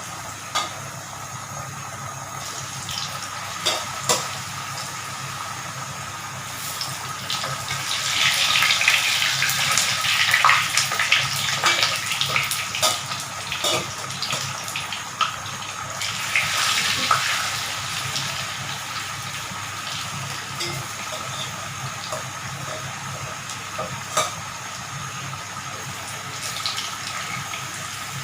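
Boiled potatoes frying in hot oil in a pan: a steady sizzle that grows louder about eight seconds in and again around sixteen seconds, with scattered clicks of a utensil against the pan.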